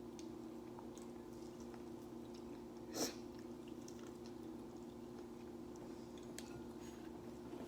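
Quiet mouth sounds of someone eating a seafood boil: soft chewing with small wet clicks, and one louder, sharp bite or smack about three seconds in. A steady low hum runs underneath.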